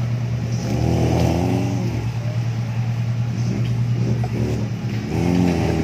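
Off-road buggy engine running at a steady idle, revved up and back down twice, about a second in and again near the end, as it works in a muddy, rocky creek bed.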